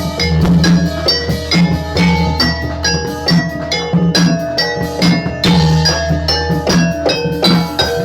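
Amplified Javanese gamelan music for a Jathilan horse dance: bronze metallophones strike quick, repeating ringing notes over drums and a steady low bass.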